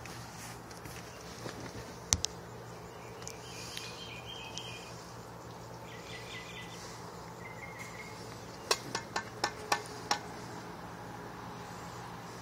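Johnson two-stroke outboard motor idling steadily in neutral, a low even hum. A few sharp clicks or knocks come about nine to ten seconds in.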